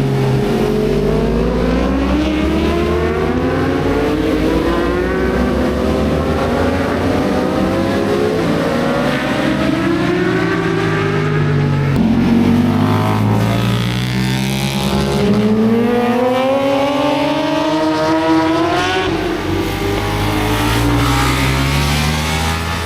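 Several racing motorcycles run through a hairpin during qualifying, their engines overlapping and loud. The pitch drops as they slow into the corner, then climbs in long rising runs as they accelerate out, over and over as bike after bike passes.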